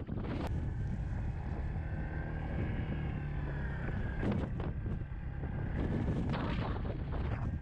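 Snowstorm wind buffeting the microphone in a steady low rumble, with stronger gusts midway and near the end. A faint wavering tone sounds under the wind a couple of seconds in.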